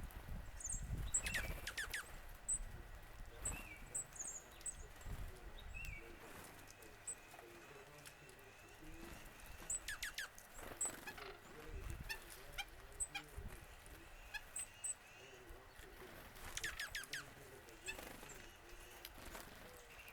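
Several wild songbirds calling: many high thin chips, plus three short phrases of quick downward-sliding notes at roughly 8-second spacing, over a low rumble of wind or microphone noise.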